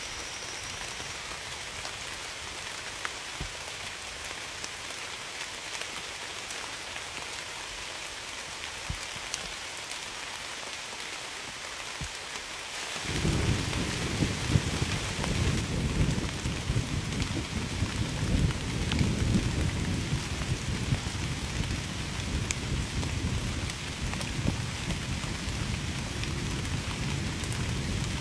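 Steady rain falling, with scattered drop ticks. About thirteen seconds in, a deep rumble of thunder starts suddenly and keeps rolling, swelling and fading, through the rest.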